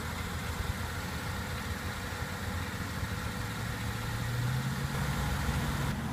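2014 BMW X6 xDrive35i's turbocharged 3.0-litre inline-six idling steadily, its pitch and level rising a little from about halfway through.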